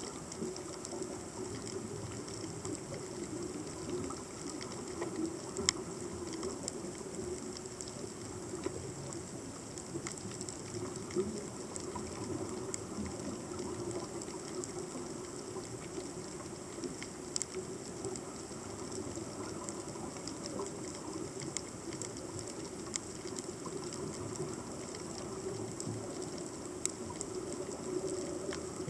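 Underwater ambience picked up by a submerged camera: a steady hiss with a low hum and scattered sharp clicks.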